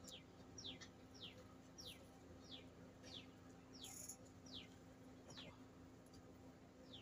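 A bird calling faintly, a short falling note repeated about every two-thirds of a second, with a pause shortly before the end.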